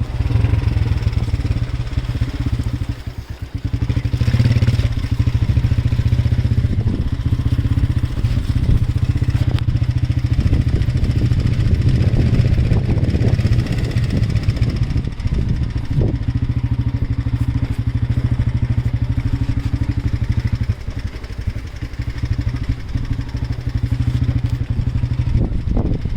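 A motor vehicle's engine running steadily with a low drone, dipping briefly about three seconds in.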